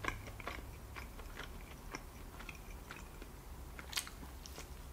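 Quiet close-miked chewing of soft, cheese-sauced food, with small wet mouth clicks, and a sharper bite about four seconds in as a sauce-covered fry goes into the mouth.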